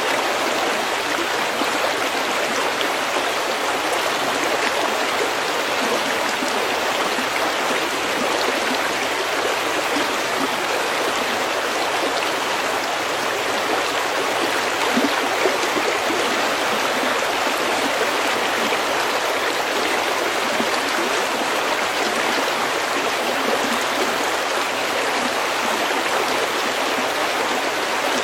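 A stream running over pebbles, a steady rushing and babbling of water with no breaks.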